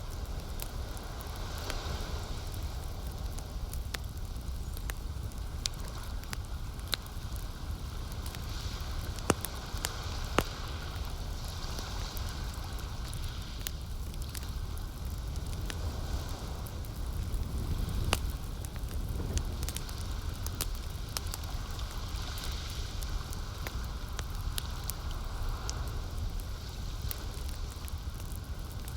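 Wood campfire crackling, with scattered sharp pops over a steady low rumble. Softer lapping of lake water swells every few seconds.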